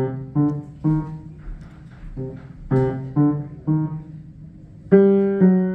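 A beginner playing single piano notes slowly: three notes, a pause, three more, then two louder notes about five seconds in, each fading after it is struck.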